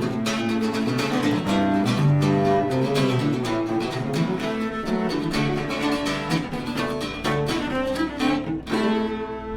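Live acoustic string music: quick plucked guitar notes over sustained bowed cello lines, closing on a held chord near the end.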